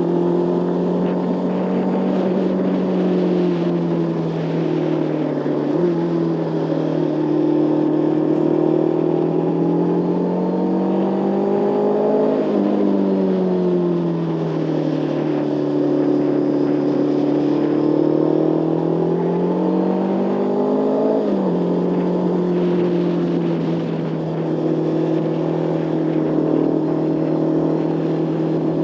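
Motorcycle engine heard from the rider's seat as the bike is ridden along a winding road, its pitch rising and falling with the throttle, with three abrupt pitch steps where the rider changes gear.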